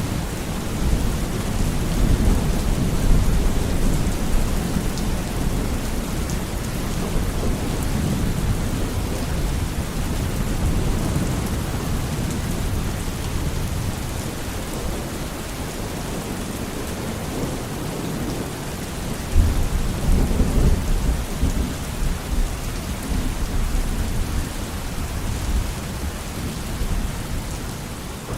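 Steady heavy rain with thunder rumbling low underneath, and a sudden louder roll of thunder about 19 seconds in.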